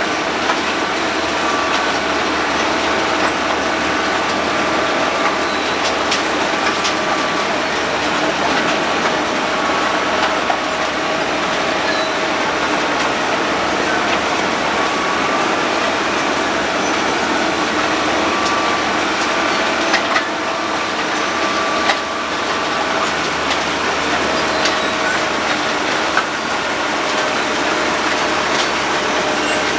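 Road planer at work: the heavy machine runs steadily, its milling drum cutting the road surface, with a couple of steady whining tones and now and then a sharp knock.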